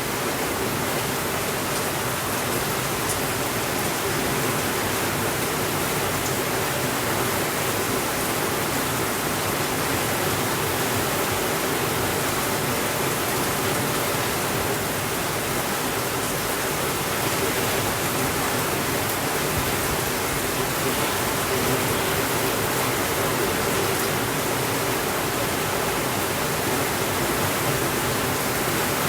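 Steady rainfall: an even hiss of rain that holds the same level throughout.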